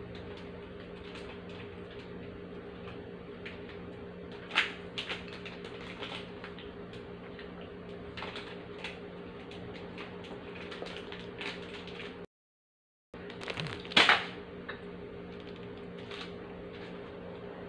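Biscuits being bitten and chewed close to the microphone: scattered sharp crunches and clicks, the loudest about four and a half seconds in and about fourteen seconds in, over a steady hum. The sound drops out for about a second just after twelve seconds.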